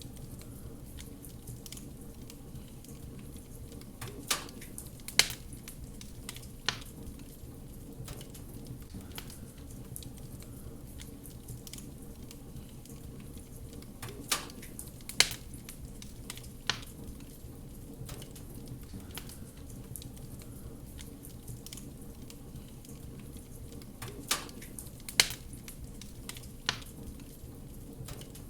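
Wood fire burning with a steady low rumble and sharp crackling pops, which come in clusters of three about every ten seconds.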